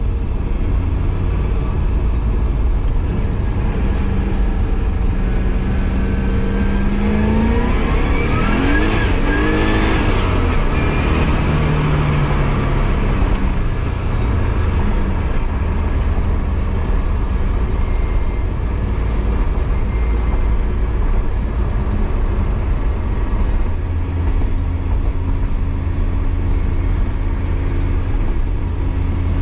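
Turbocharged LC9 5.3-litre aluminium-block LS V8 in a C4 Corvette running under way with a steady low exhaust rumble. About seven seconds in the revs rise in a climbing sweep, then ease off again a few seconds later.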